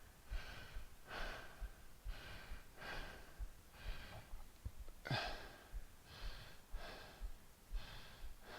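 A man breathing hard and fast from exertion, with short quick breaths about two a second during a dumbbell hang snatch thruster set.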